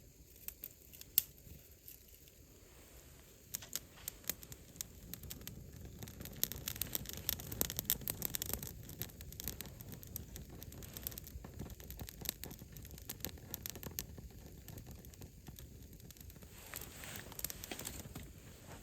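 Wood campfire burning, with irregular sharp crackles and pops over a low rumble of flame; the crackling is densest and loudest about six to nine seconds in.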